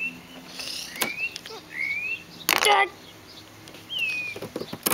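Birds calling: several short chirps that rise in pitch, with one louder call about two and a half seconds in and a few light clicks.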